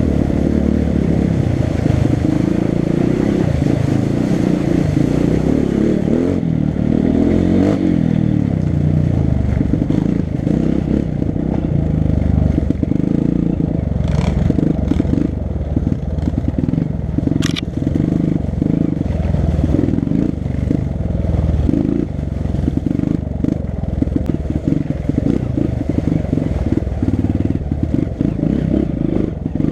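Four-stroke single-cylinder dirt bike engine riding a trail, its pitch rising and falling with the throttle, then chopping on and off over rough ground. The bike clatters throughout, with two sharp knocks about halfway through.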